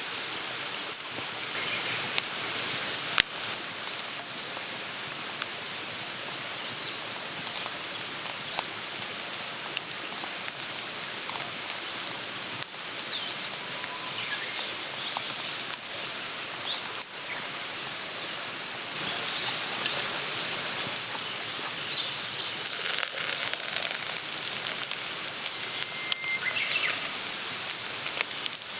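Campfire burning with a steady hiss and many small crackles and pops, and now and then a brief faint whistle from the burning wood.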